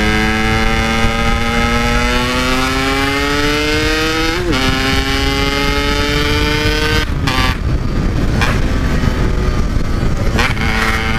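Yamaha RX-King two-stroke single-cylinder motorcycle engine under hard throttle, its pitch climbing steadily with a brief dip about four and a half seconds in, as at a gear change. After about seven seconds the engine note fades into wind rush on the microphone.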